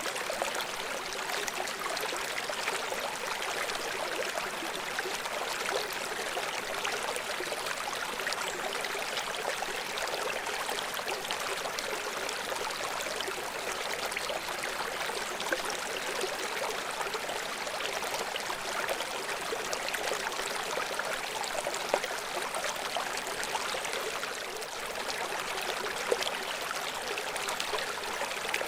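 A river's water flowing and splashing steadily, a continuous rushing with small splashes and gurgles throughout.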